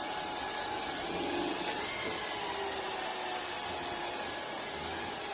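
Vacuum cleaner running steadily: an even whooshing hiss with a faint whine, holding at a constant level.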